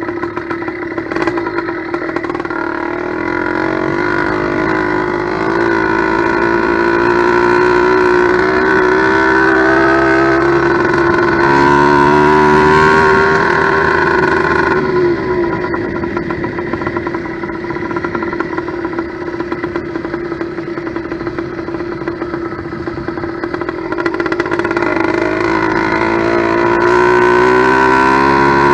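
Two-stroke motorized-bicycle engine (a steel-sleeve ~90cc kit on an 80cc China-girl bottom end) running; its speed climbs slowly, drops suddenly about halfway through, then climbs again near the end, as the carburettor is being adjusted.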